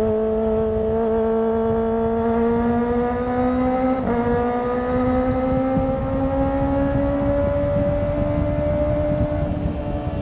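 Kawasaki ZX-25R's 250cc inline-four engine and exhaust under way. A steady high engine note climbs slowly in pitch as the bike gathers speed, then eases off slightly near the end.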